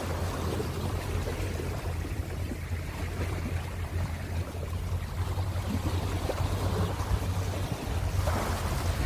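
Ocean waves washing on the shore, a steady rushing hiss over a low rumble, with a louder surge of breaking water near the end.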